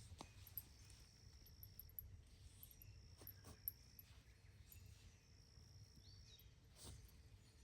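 Faint outdoor ambience: a high insect trill comes and goes in stretches of a second or two, over a low steady hum, with a few scattered soft ticks.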